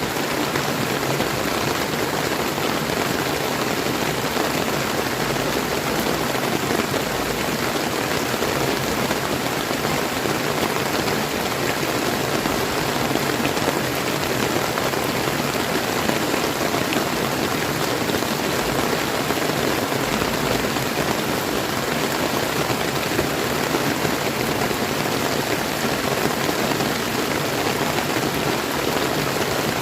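Steady rain falling together with the flow of a clear river: an even, unbroken hiss of water.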